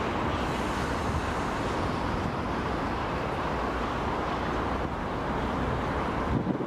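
Class 365 electric multiple unit running slowly out of a tunnel: a steady rumble, with wind buffeting the microphone.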